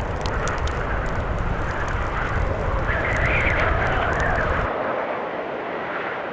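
Blizzard wind howling, its pitch rising and falling, over a crackling wood fire and a low rumble. About three-quarters of the way through, the crackle and rumble cut off suddenly and only the howling wind remains.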